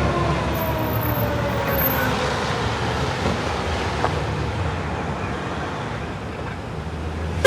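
Fire engine siren slowly falling in pitch and fading away over the first few seconds, over a steady low rumble of traffic and engines. A sharp click near the end.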